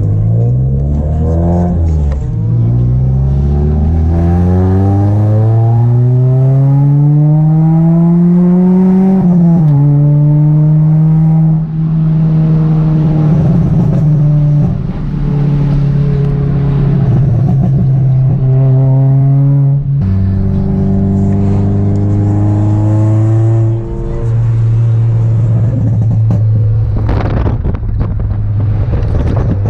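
Car engine accelerating. Its pitch climbs slowly for several seconds, drops suddenly, then holds and steps down a few more times, as at gear changes. There is a brief rushing noise near the end.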